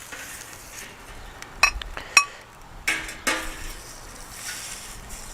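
A utensil clinking and scraping against a hot griddle pan as fried eggs are lifted off, with three short ringing metallic clinks over a faint sizzle.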